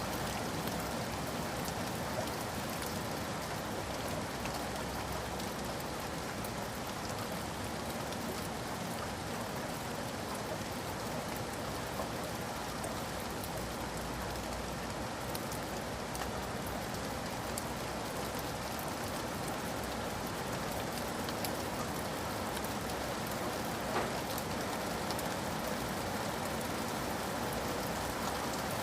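Steady rain falling, with many small drop ticks scattered through it and one slightly louder tick late on.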